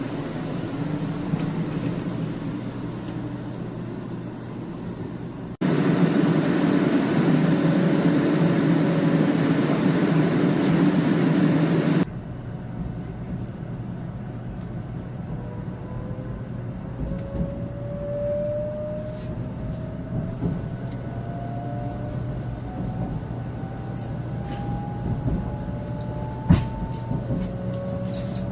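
JR West 500 series Shinkansen heard from on board: steady running noise, louder for a few seconds in the middle. In the later part a motor whine climbs steadily in pitch again and again as the train gathers speed, with a few sharp clicks near the end.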